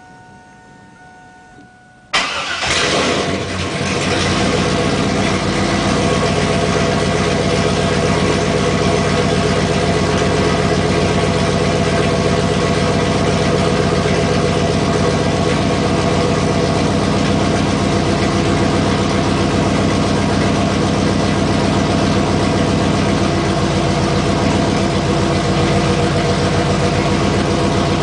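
Camaro Z28's LS1 V8 through a full SLP Loudmouth exhaust being started about two seconds in, flaring up briefly on start-up and then settling into a steady idle.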